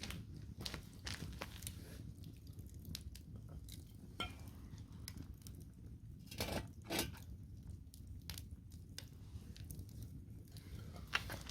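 Firewood campfire burning: irregular crackles and sharp pops of the logs over a low steady rush of the flames, with a few louder pops about six and seven seconds in.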